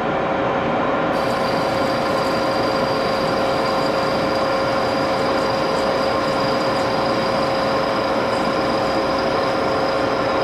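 Geared-head Axelson lathe running steadily while turning an aluminium part, with a constant whine from the machine. A high, thin squeal comes in about a second in and holds steady.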